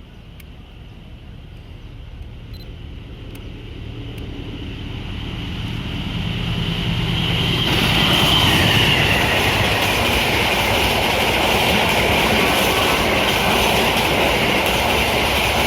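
Diesel-hauled express train, the Taksaka, approaching through the station without stopping. It grows steadily louder over about eight seconds, then passes close by at speed with loud, steady wheel and rail noise.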